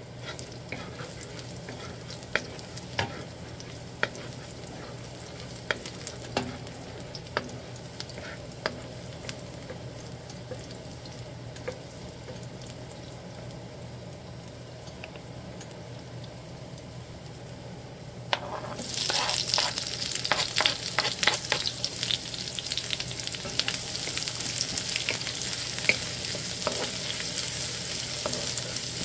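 Chopped garlic frying gently in oil in a wok, with scattered sharp taps of the spoon against the pan. About two-thirds of the way in, diced onion goes into the hot pan and the sizzling turns suddenly much louder and denser as it is stirred.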